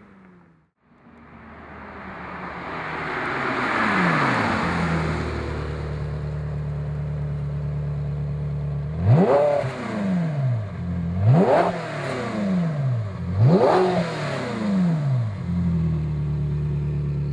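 Ferrari 360 Modena's V8 through a Fabspeed Maxflo sport muffler with stock catalytic converters. The engine sound swells and then winds down to a steady idle. Near the middle it is blipped three times, each rev climbing sharply and falling back to idle.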